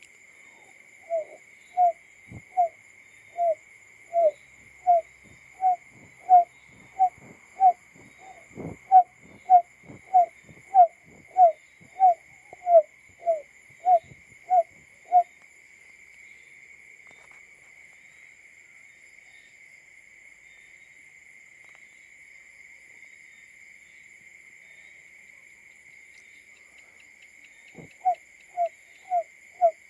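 Male barred buttonquail's call: a long run of short, low hooting notes, about one and a half a second, which stops about halfway through and starts again near the end. A steady high-pitched whine runs underneath throughout.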